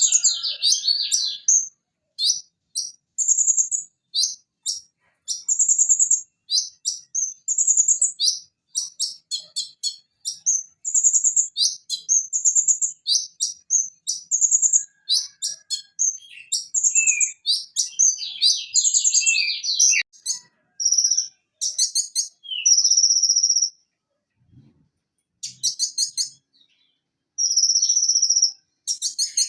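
Purple-throated sunbird (konin, Leptocoma sperata) singing a fast run of high, sharp chirps and rapid trills, broken by short gaps and one brief pause about three-quarters of the way through.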